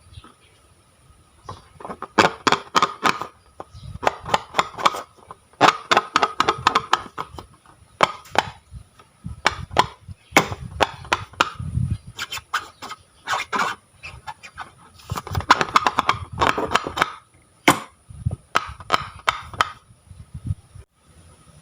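Slime being squeezed and kneaded by hand: dense spells of sticky, wet clicks and pops, each a second or two long, with short pauses between. A faint steady high whine sits underneath.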